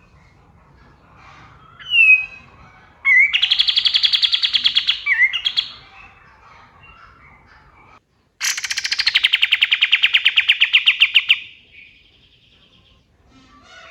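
A kapas tembak songbird sings twice. The first song is a short down-slurred note, then a fast, loud, rattling trill of rapid repeated notes. The second is a longer trill that starts high and slides lower before trailing off.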